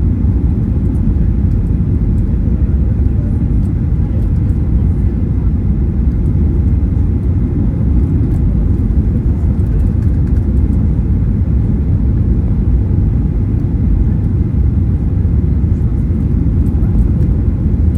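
Steady, loud low rumble of a Boeing 737-800 airliner's cabin noise, heard from inside the passenger cabin, holding even throughout.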